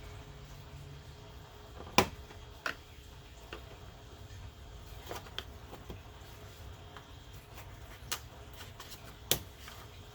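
Scattered sharp clicks and knocks: retaining clips being pushed down and popped up as a car's cover is worked loose. The loudest click comes about two seconds in, and another strong one near the end.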